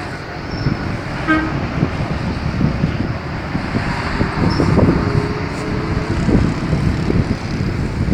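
Vehicle engine noise rumbling steadily, with a short horn toot about a second in.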